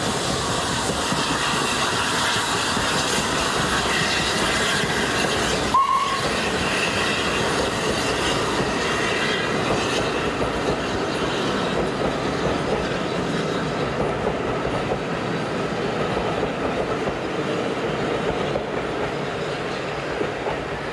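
Railway coaches running on the track: steady wheel and rail noise with a clatter over the rail joints, easing off slightly near the end. There is a brief break with a short high chirp about six seconds in.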